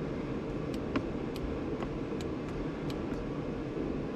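Steady background hum of noise with a string of light, sharp clicks, roughly two or three a second, through the middle.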